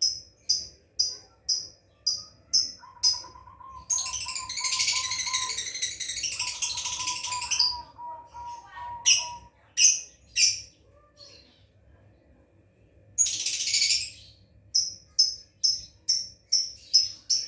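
Lovebird calling with sharp, high chirps about twice a second, broken by two bouts of dense chattering: a long one about four seconds in and a shorter one later on. The bird is practising 'ngekek', the lovebird's long chattering song.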